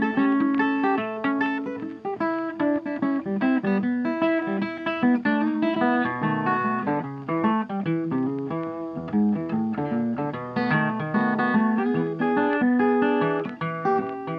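Acoustic guitar music, quick plucked notes over lower bass notes.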